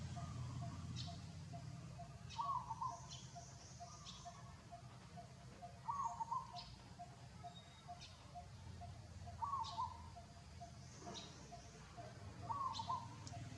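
Birds calling: a short warbling call repeats about every three to four seconds, mixed with brief high chirps, over a faint rapid ticking and a low hum.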